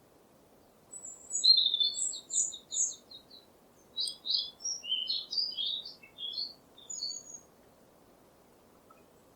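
A bird chirping: a quick run of repeated chirps starting about a second in, then a varied phrase of higher and lower chirps, falling quiet after about seven seconds.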